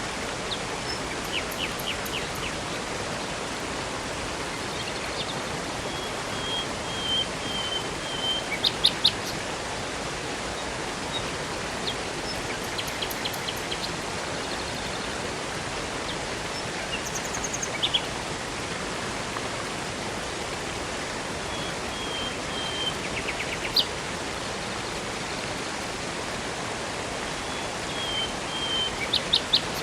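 Steady rushing water of a river and waterfall, with birds chirping and singing short high phrases every few seconds over it.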